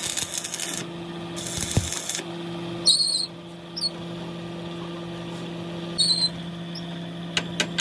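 A motor running with a steady hum, broken by two short bursts of hiss in the first two seconds, two brief high squeaks about three and six seconds in, and a few clicks near the end.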